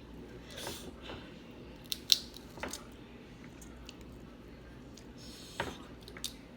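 Snow crab shells being cracked and picked apart while eating, with chewing: a few sharp cracks and snaps, the loudest about two seconds in.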